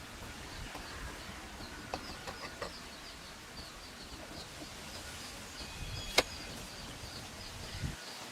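Outdoor ambience with a high, rapidly repeating animal chirp, over a low background rush. A few sharp knocks are heard, a cluster around two to two and a half seconds in and the loudest about six seconds in.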